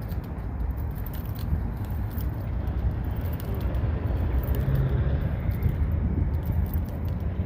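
A car engine running with a steady low rumble that gets a little louder about four seconds in.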